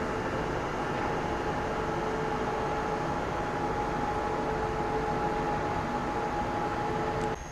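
Train at an automatic train-washing machine: a steady rumble and hiss with two steady humming tones, cutting off abruptly near the end.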